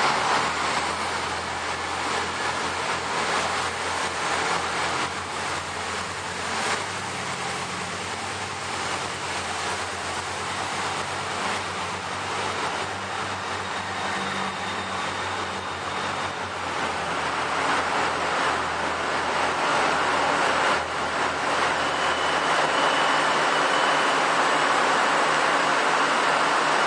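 Passenger train pulling out of the platform, a low steady hum of its running gear under a constant rush of station noise. A faint high whine comes briefly twice, and the noise grows louder near the end as another train draws in.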